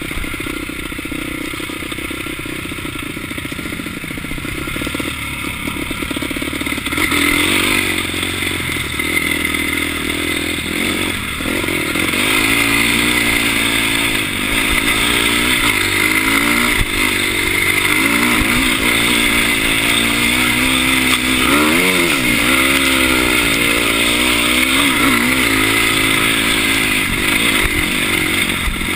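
Dirt bike engine running on a trail ride, its pitch rising and falling with the throttle. It is quieter for the first several seconds, then louder from about seven seconds in with repeated revs up and down.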